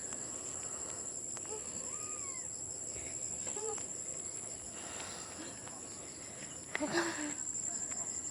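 Steady high-pitched drone of insects, a continuous singing tone throughout, with a few faint short calls and a brief louder rustling noise about seven seconds in.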